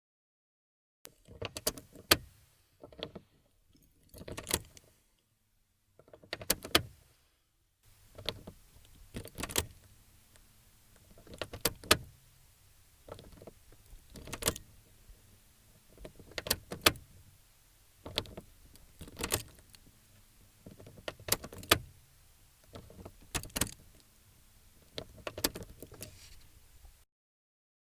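Car windscreen wipers heard from inside the cabin: the wiper motor runs with a faint hum while the blades sweep back and forth, a swish-and-clunk about every two and a half seconds.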